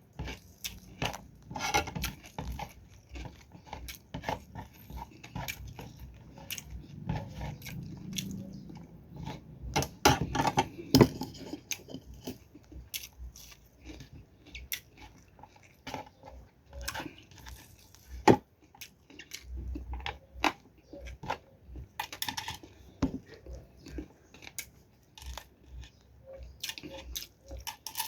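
Close-up eating sounds: crunchy fried dried fish being bitten and chewed, with irregular crackles and smacks, now and then a clink of a utensil on a plate.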